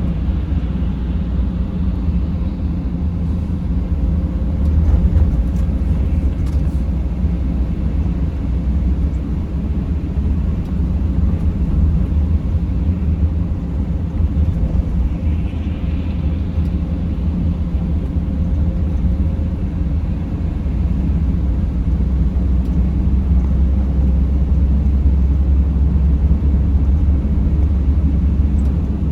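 Steady low rumble of road and engine noise inside a Mercedes Sprinter van's cabin as it drives.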